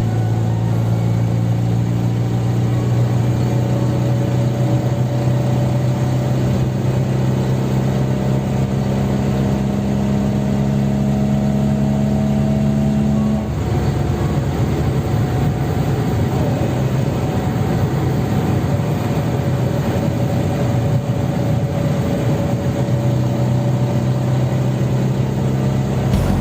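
Fiat 126p's air-cooled two-cylinder engine running steadily under way, its pitch creeping up slightly. About halfway through, the sound changes abruptly: it drops a little in level and turns rougher.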